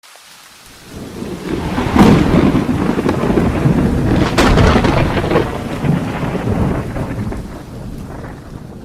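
Thunder rumbling with rain, swelling in about a second in, with sharp cracks partway through before it rolls away.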